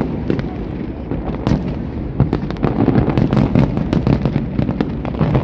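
Aerial fireworks display: a dense, continuous barrage of shell bursts, bangs and crackles coming several a second, over a steady low rumble.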